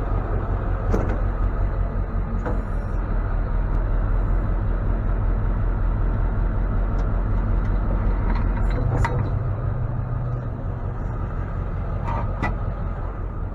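Tow truck engine running steadily, with a few sharp metallic clanks. The engine hum grows stronger for a couple of seconds just past the middle.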